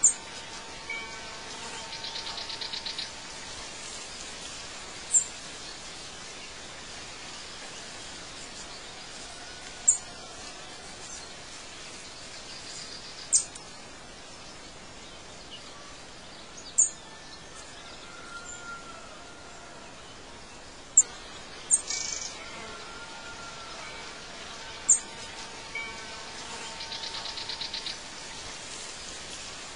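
Birds calling over a steady background hiss: sharp, very high chirps every few seconds and some softer whistled notes, with a short buzzy trill near the start and again near the end.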